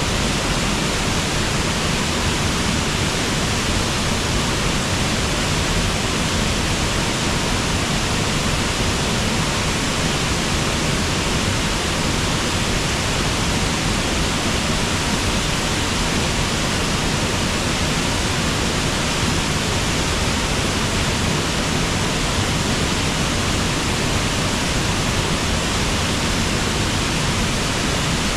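Steady, unbroken rush of a river waterfall, an even wash of noise with no changes.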